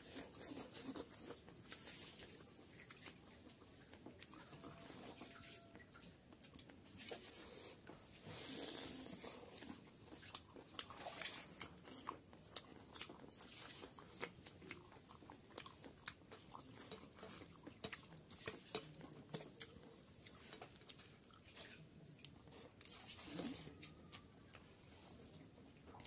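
Close-up eating sounds: chewing, biting and crunching chicken curry with greens, with many short wet smacks and clicks of the mouth.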